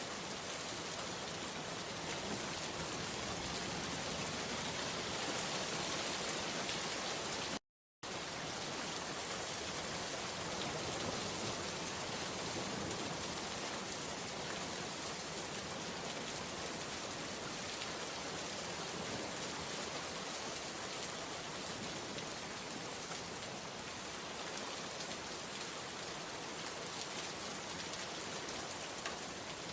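Steady rain falling, an even hiss of drops on surfaces. The sound cuts out completely for a split second about eight seconds in.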